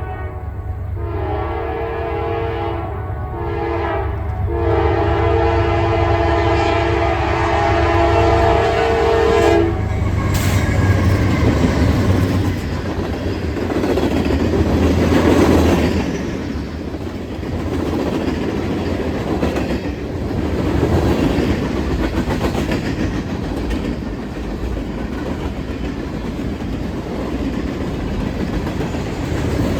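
Locomotive air horn sounding long, long, short, long blasts, the grade-crossing signal, with the last blast held for about five seconds; then the train rolls past with a steady rumble and the clickety-clack of wheels on rail joints.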